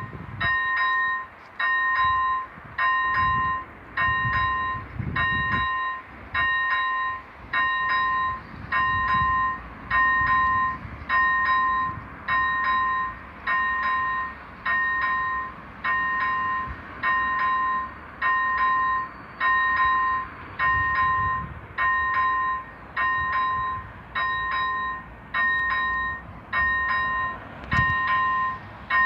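ZV-01 electronic warning bell of a level crossing ringing steadily, about one ding a second, each ding a two-note tone. It signals that the crossing is closed for an approaching train.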